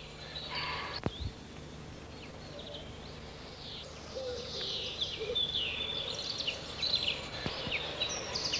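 Several birds chirping and singing, growing busier from about four seconds in, over a faint steady low hum. There is a sharp click about a second in.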